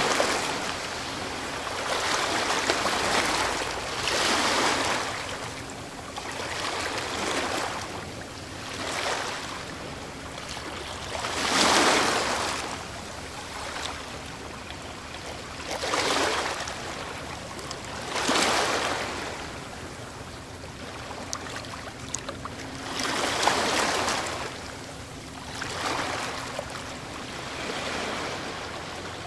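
Ocean waves breaking on a shore, one surge of hissing surf after another every few seconds, with a steady wash of water between them.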